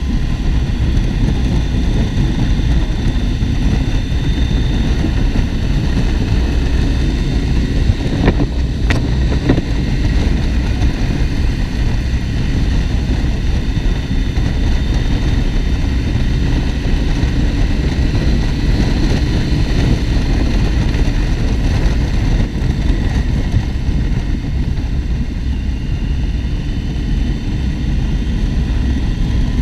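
Motorcycle on the move: a steady engine drone under heavy wind noise on the microphone, with two brief clicks about eight and nine seconds in.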